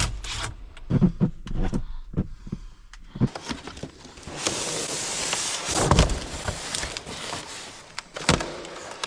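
A run of knocks and thumps over a low hum that stops about three seconds in, then a few seconds of rustling, scraping noise with a couple more knocks: objects being handled.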